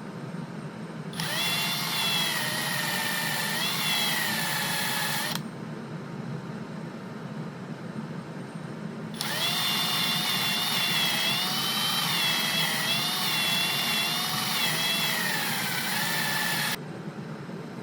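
A handheld power tool, drill-like, running in two spells of about four and eight seconds. Its motor whine sags and recovers in pitch as it is pressed into the work.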